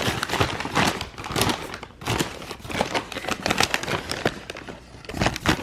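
Irregular crinkling and rustling of a fast-food takeout bag and its wrappers being handled and unpacked.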